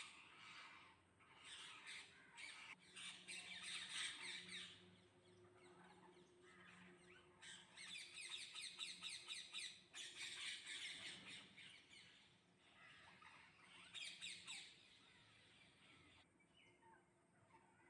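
Parrots squawking in several bursts of rapid, shrill, repeated calls with short quieter gaps between them.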